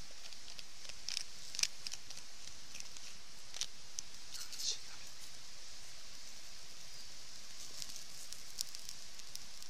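Wood campfire crackling, with irregular sharp pops and snaps over the steady rushing hiss of a mountain stream.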